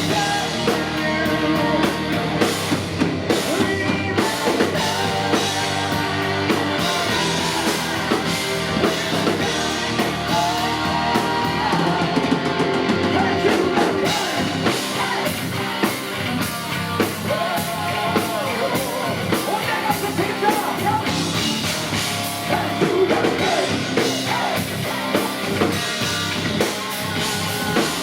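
Heavy metal band playing live at full volume: distorted electric guitars, bass and a drum kit driving steadily throughout.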